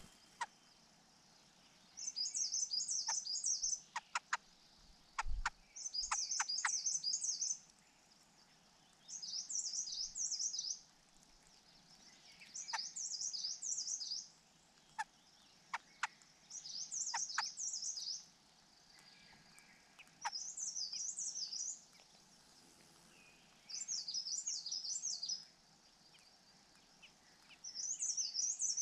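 A small bird calling in a regular series: about eight bouts of rapid, high, warbling trills, each lasting one and a half to two seconds, repeated every three to four seconds. Short sharp clicks fall between several of the bouts.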